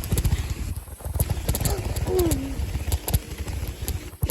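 Irregular knocking, rattling and buffeting from a bicycle being ridden with the camera on board, with sharp clicks throughout. A short falling tone sounds about two seconds in.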